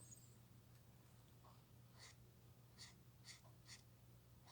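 Faint strokes of a Touch twin alcohol marker's tip on paper: a handful of short scratches about two to four seconds in, over a low steady hum.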